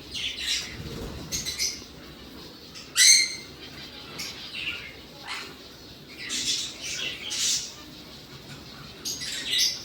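Parrot squawking and chirping in a string of short, high calls, the loudest and harshest about three seconds in.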